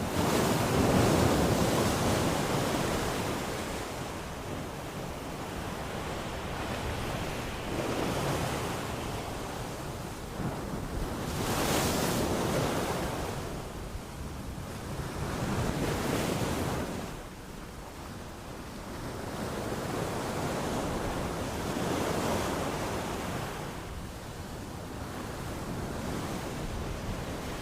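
Sea waves breaking and washing on a shore, a rushing hiss that swells and ebbs about every four seconds, loudest in the first couple of seconds.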